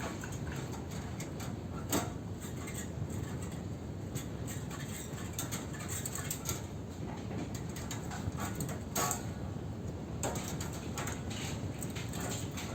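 Irregular light metallic clicks, taps and scrapes from hand work on a scrap air-conditioner condenser, stripping its steel strip and copper tubing, over a steady low background rumble. A sharper knock comes about two seconds in and another near nine seconds.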